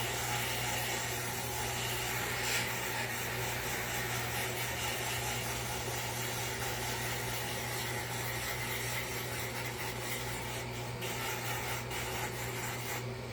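Small power tool running at a low, steady speed while it sands and shapes wood, with a constant hum under the abrasive rubbing. The rubbing noise drops off near the end, leaving the hum.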